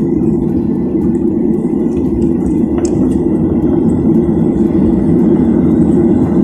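A steady, loud, low engine rumble, with a faint steady whine above it.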